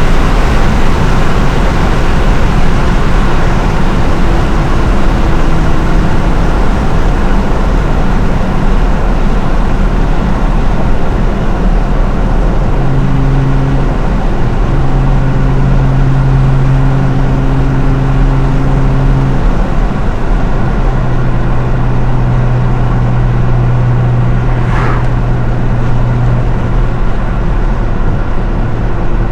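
750-horsepower Nissan R35 GT-R's twin-turbo V6 engine and exhaust running under way with heavy road noise. About halfway through, a steady low drone settles in as the engine holds a constant speed while cruising.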